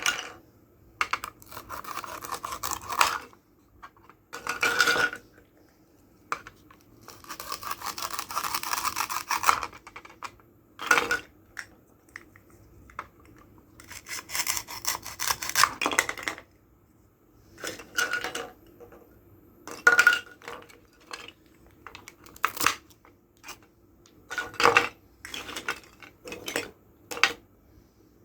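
Toy knife sawing through plastic toy fruits and vegetables: irregular bursts of scraping and rubbing strokes with sharp clicks as the pieces part, separated by short pauses.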